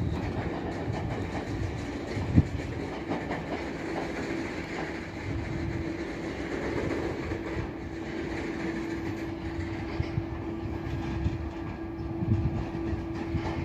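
A train rolling along the track, its wheels clicking and clattering over rail joints under a steady rumble and a constant one-note hum, with a sharp knock about two seconds in.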